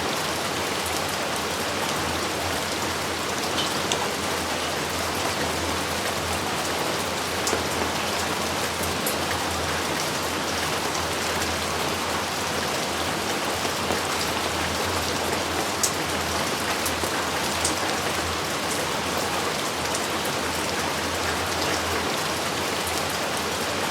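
Steady heavy rain falling, a dense even hiss with individual drops ticking sharply here and there.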